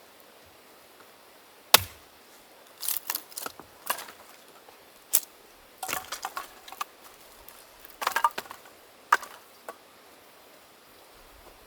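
Firewood being split: one sharp chop about two seconds in, followed by irregular clusters of short wooden clacks and cracks as the wood splits and the pieces knock together.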